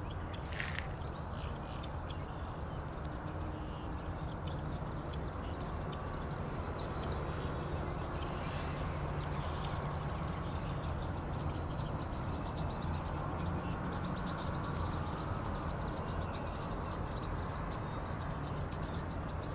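Steady low outdoor rumble with a few faint, short, high bird calls over it.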